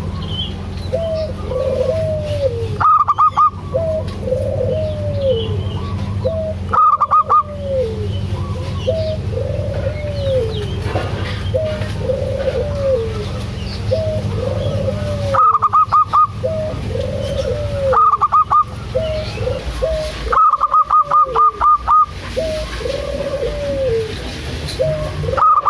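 Zebra dove (perkutut) cooing in a long run of repeated arched phrases. A few times, about 3, 7, 15, 18 and 21 seconds in, a quick series of loud, short, higher-pitched notes cuts across it. A steady low hum lies underneath.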